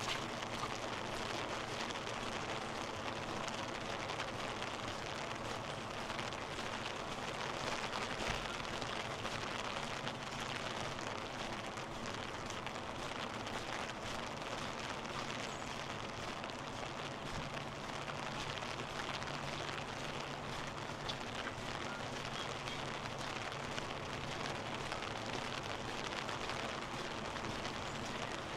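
Steady rushing water, an even hiss sprinkled with fine crackle, from flooded, swollen river water or heavy rain.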